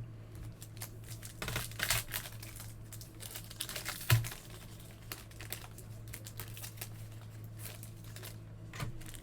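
Foil trading-card pack wrappers crinkling and cards being handled, with many small rustles and clicks and a single thump about four seconds in, over a faint steady low hum.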